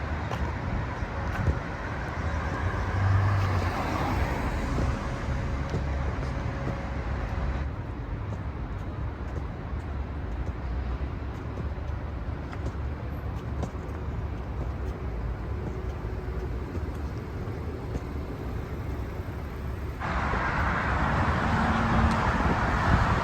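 City street traffic noise: cars passing and a steady road hum. The sound changes abruptly twice, about a third of the way in and again near the end.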